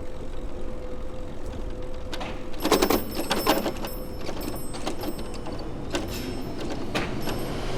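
Bicycle ridden on a city street: a steady low road rumble, with a burst of rattling clicks from the bike about two and a half seconds in and a few single ticks after.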